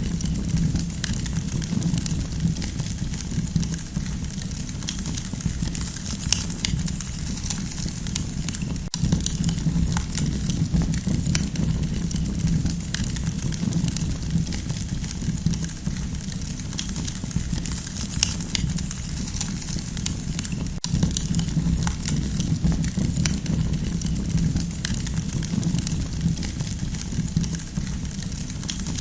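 Campfire burning: a steady low rumble with many sharp crackles and pops of burning wood scattered throughout.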